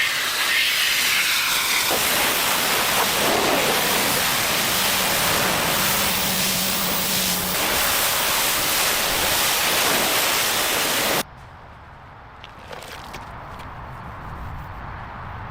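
Loud, steady rushing hiss like a jet of spray, cutting off abruptly about eleven seconds in, followed by a much quieter background with a few light knocks.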